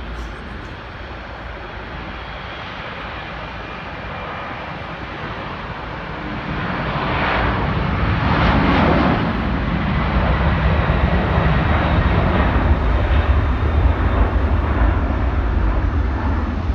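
Twin-engine Boeing 767-300ER's jet engines at takeoff power, a rushing roar that grows louder and peaks about eight seconds in as the airliner passes. After the peak it settles into a steady deep rumble.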